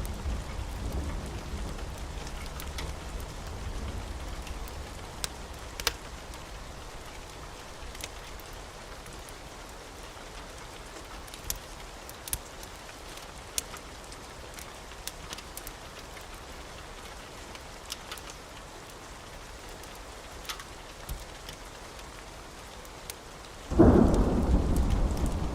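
Wood fire in a fireplace crackling, with scattered sharp pops over a soft steady hiss. Near the end a much louder low rumble sets in suddenly.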